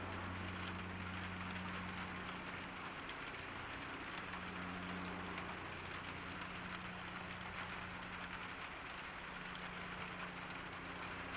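Steady summer rain falling on a garden, an even hiss of drops, with a low steady hum underneath that fades somewhat after the first couple of seconds.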